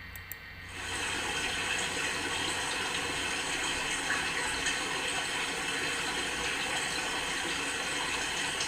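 River water flowing: a steady rushing sound that starts about a second in and fades out near the end.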